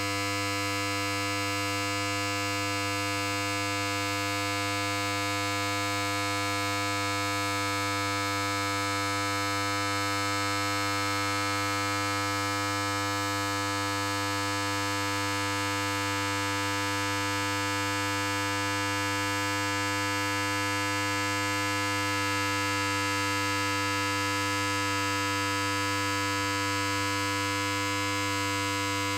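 Electric hair clipper running continuously with a steady, unchanging buzz.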